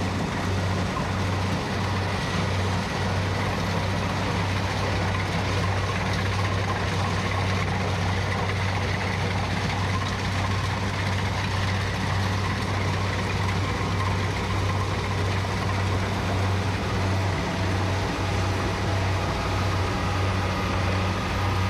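Kubota rice combine harvester's diesel engine running steadily at a constant low hum, with the noise of the working machinery over it.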